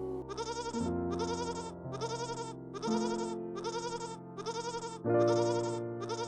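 Piano music with a bleating call repeated at an even pace, about once a second, seven times; each bleat wavers in pitch.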